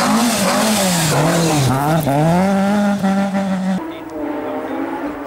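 Rally car engine revving hard, its pitch rising and falling sharply with throttle and gear changes through a corner, over a rush of tyre noise. About four seconds in it drops to a quieter, steady engine note.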